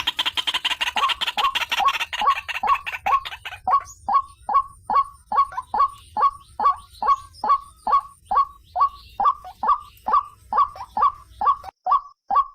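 White-breasted waterhen (ruak-ruak) calling: a long, even series of short repeated croaking notes, about three a second, louder and denser over the first few seconds.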